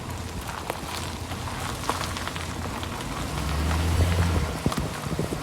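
Chevy Silverado 1500HD pickup running, with a low steady drone that swells about three and a half seconds in, over a crackling hiss scattered with short ticks. The truck has a bad front wheel bearing.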